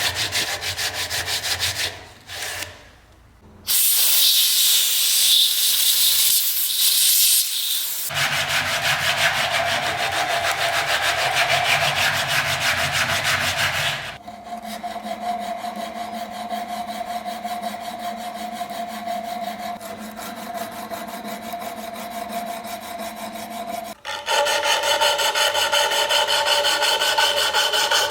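Workshop restoration work: rapid abrasive rubbing strokes against a surface, in several short sections that change character. From about halfway in, a steady hum runs under the rubbing for some ten seconds.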